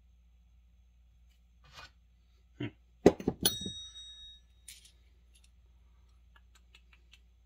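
Steel chainsaw clutch parts clinking together, with a loud cluster of clinks about three seconds in; one piece rings briefly like a small bell. Faint light ticks of handled metal follow.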